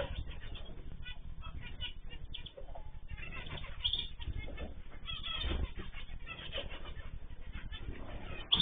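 Small cage birds chirping and calling, with frequent short flutters of wings.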